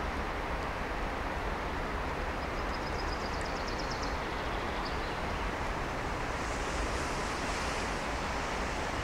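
Steady rumble and hiss of a Swiss SBB electric locomotive hauling a freight train slowly towards the listener, with a short run of faint high-pitched ticks about three seconds in.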